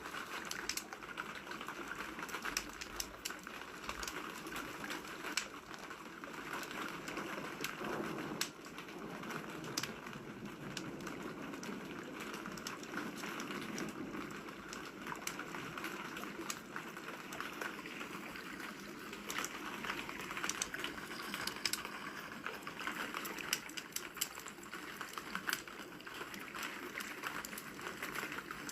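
Steady rain with a wood fire crackling, sharp irregular pops scattered through the whole stretch.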